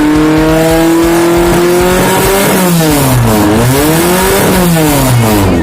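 A 1.0-litre Futura's engine running through an aftermarket racing exhaust. The revs climb slowly, then in the second half they fall and rise again several times.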